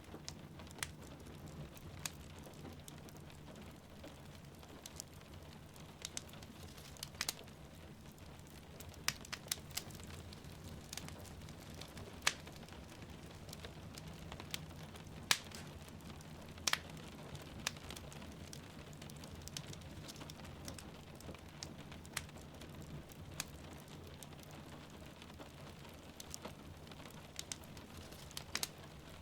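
Wood fire crackling, with sharp, irregular pops and snaps over a steady low rush of flames and falling rain.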